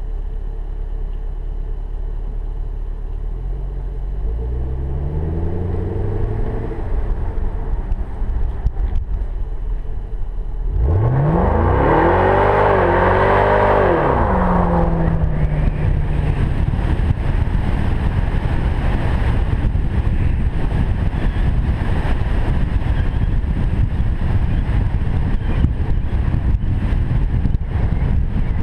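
Chevrolet Camaro engine revving up sharply about eleven seconds in for a burnout, spinning the tyres and leaving tyre smoke. Revs stay high and wavering for about three seconds, then drop back. Before it the engine rises gently as the car pulls along; after it come steady wind and road noise as the car drives on.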